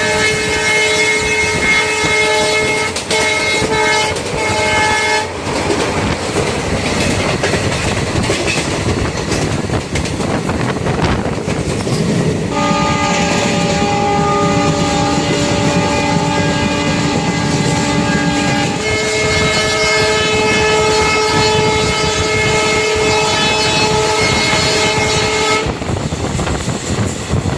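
Train running along the track with a steady rumble, overlaid by long, steady train horn blasts: one for about the first five seconds, then a long sounding from about twelve seconds in that changes pitch partway through and stops a couple of seconds before the end.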